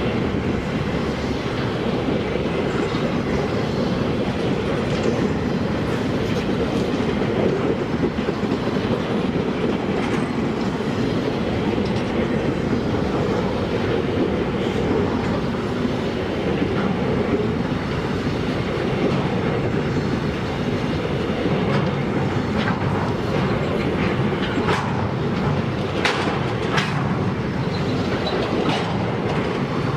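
Freight train wagons rolling past on the track: a steady rumble with the clickety-clack of wheels over rail joints, and a run of sharper clicks near the end.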